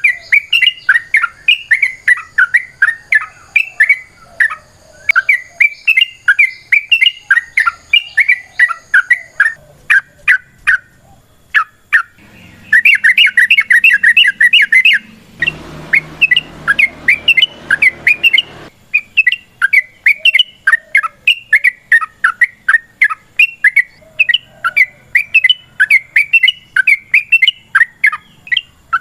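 Yellow-vented bulbul (trucukan) singing long, rapid runs of bubbly chirped notes, with a brief pause about a third of the way in. Midway there are about three seconds of rushing noise under the song.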